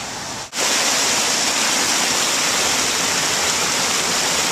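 Steady rush of spring water running and splashing over rocks, cutting in abruptly about half a second in.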